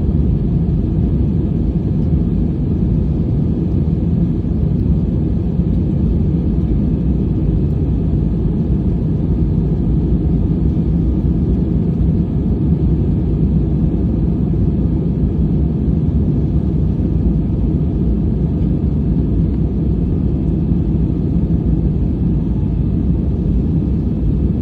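Airliner cabin noise: a loud, steady rumble of jet engines and rushing air, heard from a window seat beside the wing.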